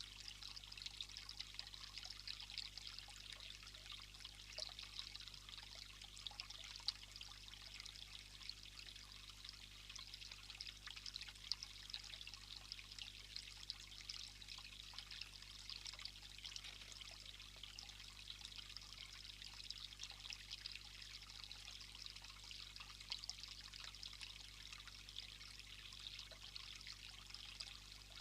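Faint, steady trickling and rushing of running water.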